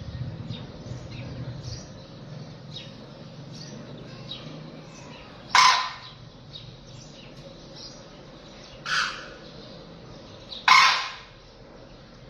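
Bird calls: three loud, short calls a few seconds apart, the third the loudest, over faint chirping from other birds.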